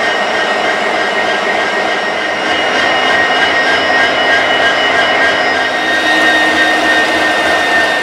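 Train running: a loud, steady rush of mechanical noise with a high, steady whine over it.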